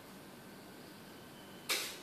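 A single quick swish of air near the end, sharp at the start and fading within a fraction of a second, over a faint steady hiss.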